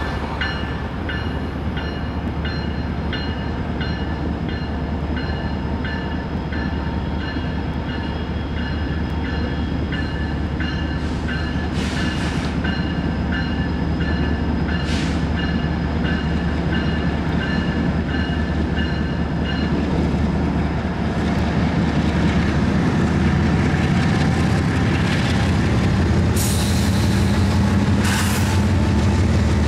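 Train rolling slowly on the rails under a steady low locomotive rumble, with high steady wheel squeal and a regular ticking from the wheels, plus a few short sharper squeals. The engine rumble grows louder toward the end.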